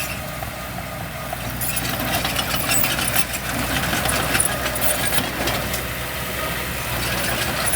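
Heavy diesel engine of a dump truck or bulldozer running steadily, with a constant low hum under a rattly noise.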